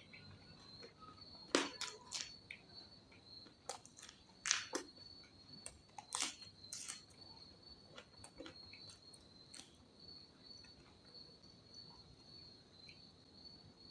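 Crickets chirring in a steady high drone, with irregular crunches and clicks of someone eating scattered through it, the loudest about one and a half, four and a half and six seconds in.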